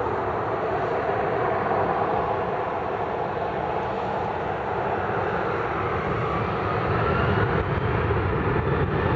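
Jet airliner's engines running in a steady rush, growing a little louder with a rising whine from about six seconds in.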